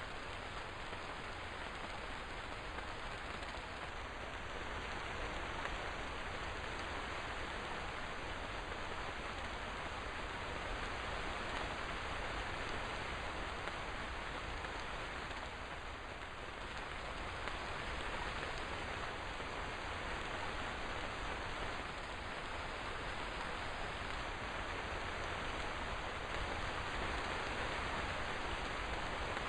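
Steady rain falling, an even hiss of many drops with no distinct thunder.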